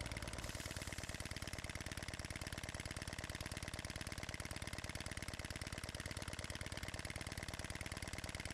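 Reeves Unicorn model horizontal steam engine running on compressed air at reduced pressure while being run in: a fast, perfectly even beat of exhaust puffs.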